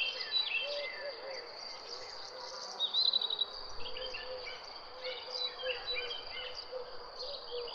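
Several wild birds chirping and calling over a steady, high insect drone, with a quick rapid trill about three seconds in and soft low repeated notes beneath.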